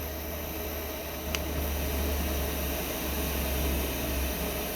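Diesel air heater running steadily: a constant rush of its blower over a low hum, with a single light click about a second in.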